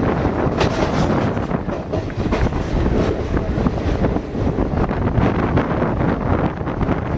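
Moving passenger train running on the line, a steady rumble with irregular clatter, heard from an open carriage window with wind buffeting the microphone.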